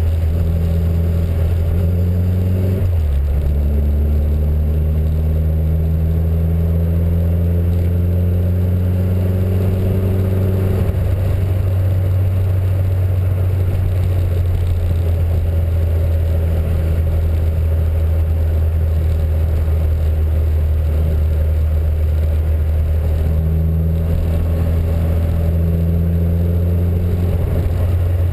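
Small Reliant car engine and road noise heard from inside the cabin while driving. About three seconds in, the engine note breaks and drops, as at a gear change. It then rises steadily for about eight seconds as the car accelerates and settles into an even cruise.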